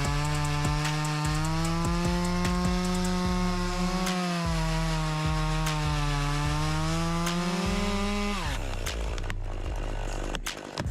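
Chainsaw engine running at high revs while cutting, its pitch sagging and recovering under load. About eight seconds in the throttle is released and the engine note falls away, leaving quieter noise with a few sharp knocks.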